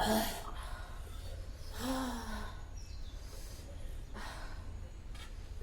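A person reacting to very spicy noodles with sharp breaths and sighs: a strong exhale right at the start, a short falling voiced sigh about two seconds in, and further breaths about a second and two seconds later, over a steady low hum.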